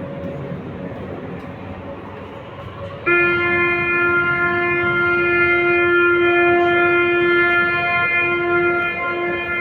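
Steady hum of an RER B train standing at a station, then about three seconds in a loud, steady electronic buzzer tone starts abruptly and holds, stuttering slightly near the end. It is the door-closing warning signal that sounds before the doors shut and the train departs.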